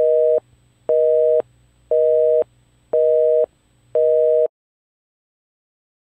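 Telephone busy signal: five short beeps of a steady two-note tone, each about half a second long and one a second, stopping about four and a half seconds in.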